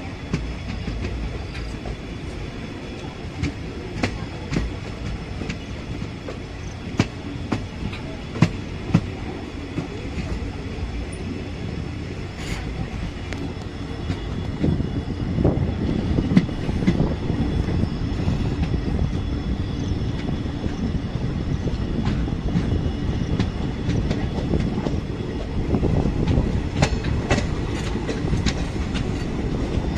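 Express passenger train coaches rolling along the track, wheels clicking over the rail joints with a steady rumble that grows louder about halfway through.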